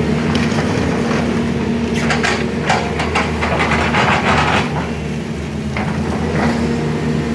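Sany SY210C-9 excavator's diesel engine running steadily, with a run of clattering knocks from about two seconds in to nearly five seconds.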